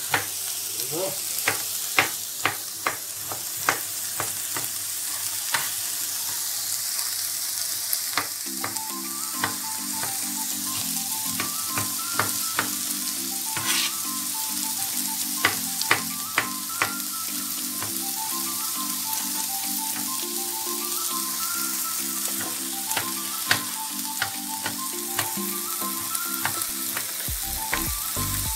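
Peppers and coriander sizzling steadily in olive oil in a pan, with scattered sharp taps and clicks of utensils. Soft background music comes in about a third of the way through.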